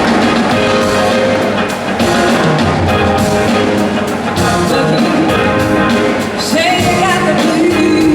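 A live rock band playing, with a drum kit keeping a steady beat under guitars and other instruments; gliding, wavering pitched lines come in near the end.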